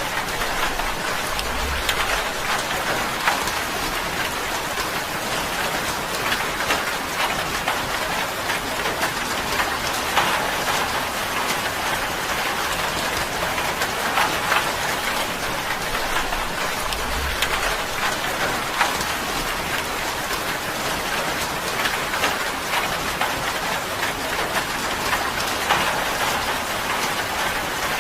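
Steady rain falling on a tin roof, a dense even patter with many individual drops ticking out of it.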